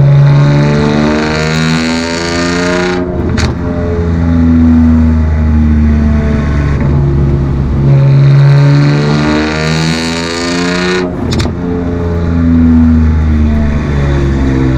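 BMW E46 M3's S54 straight-six running with no rear muffler, a loud exhaust with the pitch rising and falling as it is driven, broken briefly about three and eleven seconds in.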